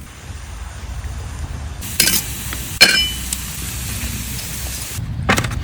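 Food sizzling in a hot pan, starting suddenly about two seconds in. Sharp metallic clinks of a utensil on the pan sound about two seconds in, again about a second later and once near the end.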